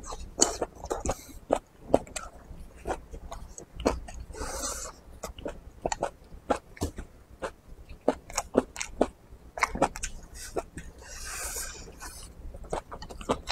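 Close-miked chewing and biting of soft food: a run of irregular wet mouth clicks and smacks as a man eats, with two short breathy sounds, one about four seconds in and one near the end.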